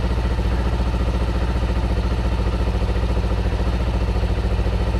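1991 Kawasaki Ninja 500's parallel-twin engine idling steadily as it warms up, with an even, regular pulse.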